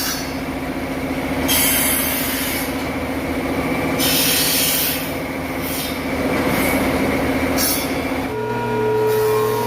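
An electric power tool running with a steady whine, with several short bursts of harsh hiss as it cuts into wood. About 8 seconds in, the whine drops to a different, lower pitch.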